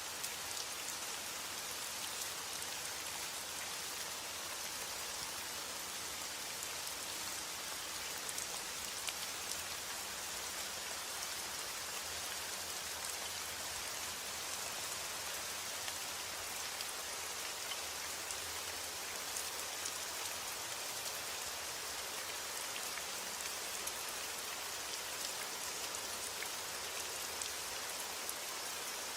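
Heavy rain falling steadily on a roof, an even hiss with scattered sharper drop ticks.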